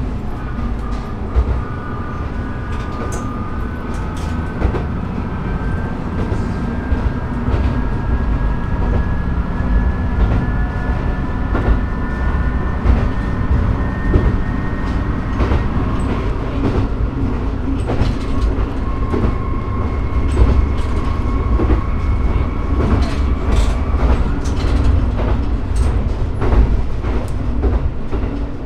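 Shimabara Railway diesel railcar running along the line, heard from just behind the driver's cab: a steady low running noise with wheels clicking over rail joints, and a whine that rises slowly in pitch over the first fifteen seconds or so and again briefly later.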